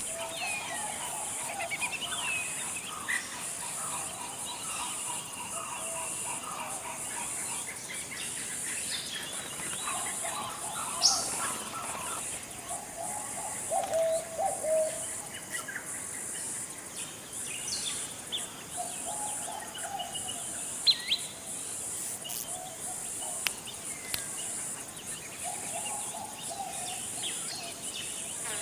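Forest ambience: assorted birds calling and chirping on and off, short warbled phrases and sharp quick chirps, over a steady high-pitched insect drone.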